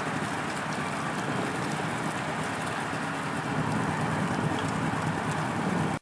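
Motorcycle engines running at low speed, a steady rumble under a noisy hiss, which cuts off abruptly at the end.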